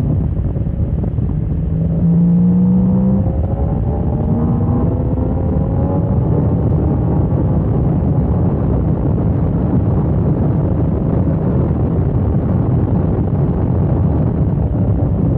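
Motorcycle engine pulling hard under heavy wind rush on the microphone; from about two seconds in, its note rises steadily for several seconds as it accelerates.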